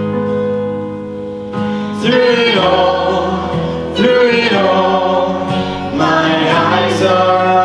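Live worship music: singers hold long notes over the band's accompaniment in a slow gospel worship song, the pitch changing about every two seconds.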